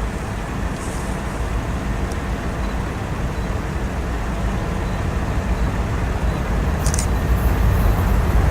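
Steady low vehicle rumble that grows a little louder near the end, with a few faint high ticks.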